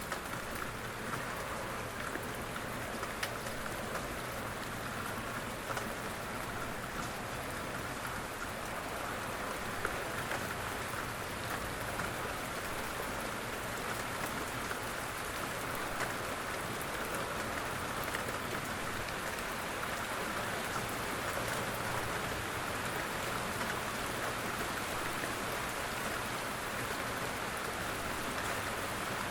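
Steady, quiet rain falling and pattering on surfaces, with scattered faint individual drop ticks.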